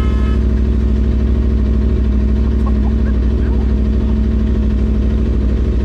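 Vehicle engine running steadily, a loud low drone with a fast even pulse.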